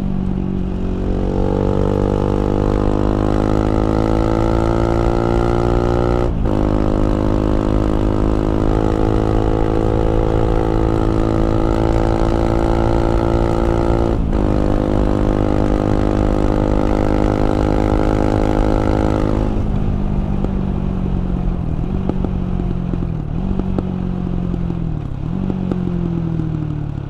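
KTM 690 Duke's single-cylinder LC4 engine pulling hard under load, its pitch climbing steadily through the gears, with quick upshifts about 6 and 14 seconds in. About two-thirds of the way through the throttle closes and the engine note falls, jumping back up three times as the rider downshifts.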